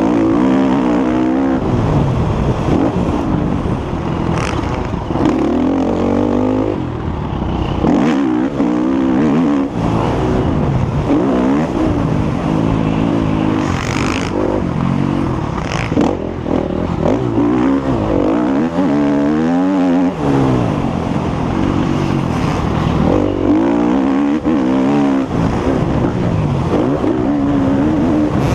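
Motocross bike engine revving hard and easing off again and again, its pitch climbing and dropping in repeated sweeps as the rider works the throttle and gears around the track.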